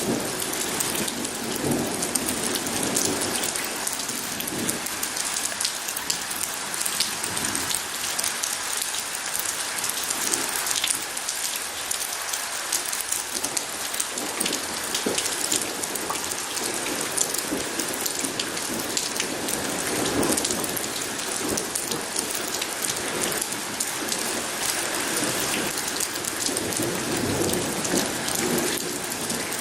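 Steady heavy rain hissing and pattering on surfaces, with many close drops ticking. Low rumbles of thunder swell and fade several times.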